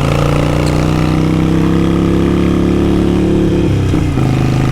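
Harley-Davidson Sportster 883 Iron's V-twin running through a Vance & Hines exhaust while riding, its note rising steadily under acceleration, then dropping sharply about four seconds in at a gear change before pulling on steadily.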